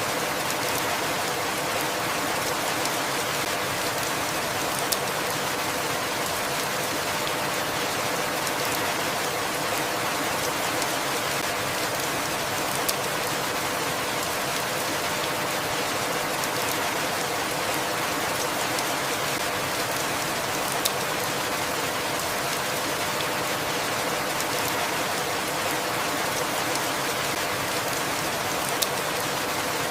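Steady rain falling, an even hiss of drops that never changes, with a faint steady hum under it. A single sharp tick stands out about every eight seconds.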